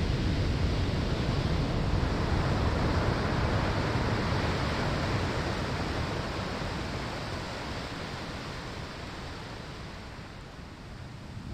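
Ocean surf washing on a sandy shore: a broken wave rushes in with a deep hiss, then slowly fades as it draws back, and the next wave begins to build near the end.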